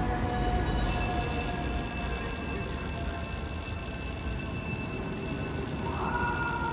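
Fire apparatus sirens winding down, their tones slowly falling in pitch. About a second in, a loud, high, steady ringing tone comes in, and near the end another siren tone starts and slowly falls.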